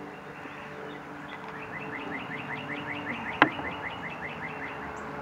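A bird singing a quick series of repeated, evenly spaced chirps, about six a second, for roughly three seconds. Partway through the chirping comes a single sharp click, the loudest sound.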